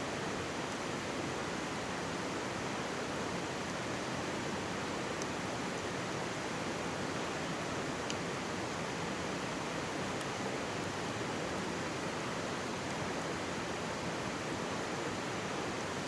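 Mountain stream rushing steadily close by, with a few faint, sharp crackles from a wood campfire.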